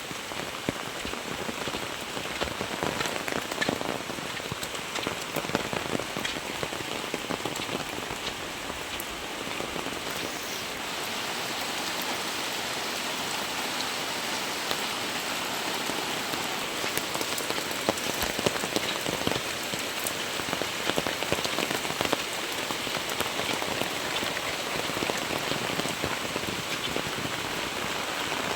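Heavy rain falling steadily, a dense hiss with many fine drop patters and drips on nearby surfaces.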